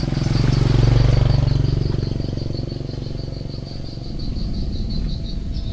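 A small motorcycle engine passing close, loudest about a second in and fading as it moves away. A high, rapidly pulsing chirp runs steadily behind it.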